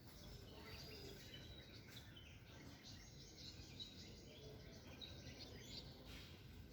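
Faint, scattered chirps and short calls of small birds over a low, steady background rumble.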